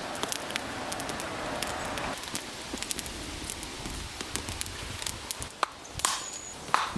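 Wood fire crackling, with many small sharp pops. A steady hiss stops about two seconds in, and several louder knocks of wood come near the end.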